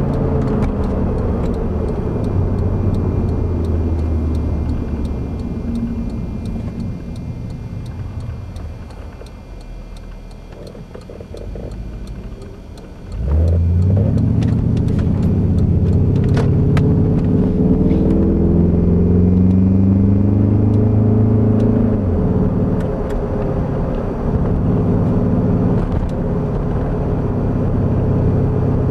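Lexus LS400's 1UZ-FE V8 through 2.25-inch straight pipes, heard from inside the car. The exhaust note falls and quietens as the car coasts, then about halfway through the throttle opens hard and it climbs loudly in pitch, dipping once at a gear change before rising again.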